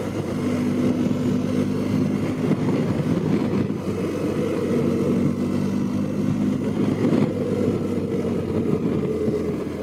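BMW GS motorcycle's boxer-twin engine running under way, a steady engine note with a held tone, mixed with wind and road noise.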